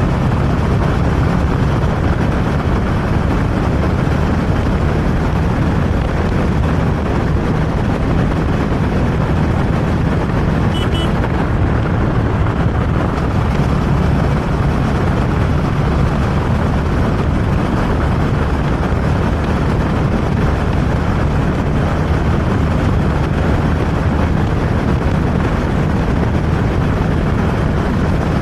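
Motorcycle engine running steadily while riding, under heavy wind and road noise on the microphone. A short, high beep sounds once about eleven seconds in.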